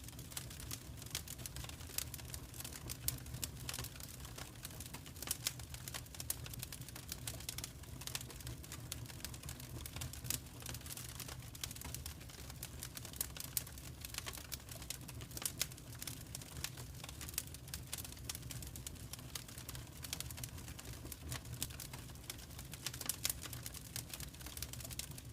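Wood fire crackling in a fireplace: a dense, irregular run of small sharp snaps and pops over a steady low rumble of the flames.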